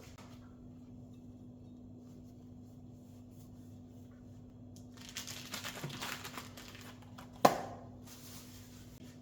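Crinkling, rustling handling noise for about two seconds past the middle, then one sharp knock, the loudest sound. A steady low hum runs underneath throughout.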